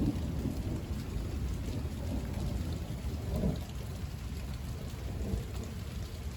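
Thunder rumbling low and dying away, with a brief swell about halfway through, over steady rain.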